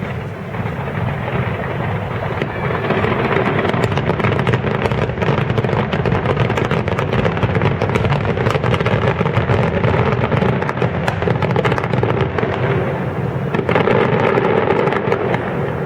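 Aerial fireworks going off in a dense, continuous barrage of overlapping bangs and crackles. It swells about three seconds in and again near the end.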